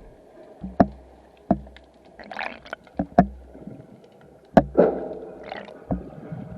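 Water noise picked up by a submerged camera: about eight sharp, irregular knocks with deep thumps under them, over a low steady rumble, with a couple of short hissing swishes.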